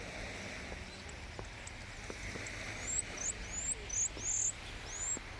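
Common starling singing: a run of short, high, up-slurred whistles, about two to three a second, starting about halfway through, over a steady low rumble.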